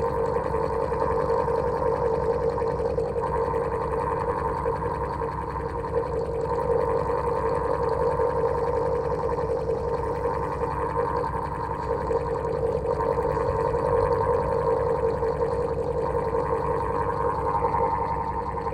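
An old electric fan running with a steady hum that wavers slightly.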